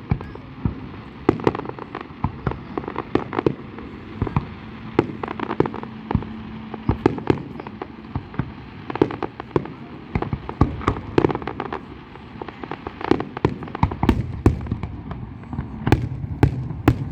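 Fireworks display: many sharp bangs and crackles in quick, irregular succession, coming thickest near the end.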